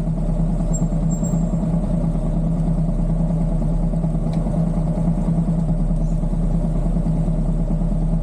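Motorcycle engine running at a steady, unchanging speed, a constant low hum with a haze of road and traffic noise.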